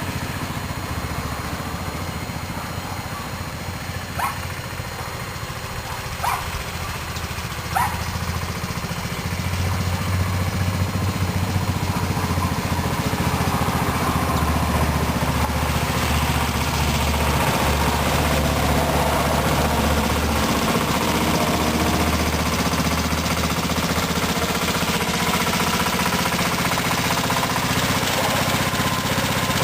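Craftsman riding lawn mower engine running steadily, its speed shifting and the sound growing louder from about ten seconds in. Three short high chirps come about four, six and eight seconds in.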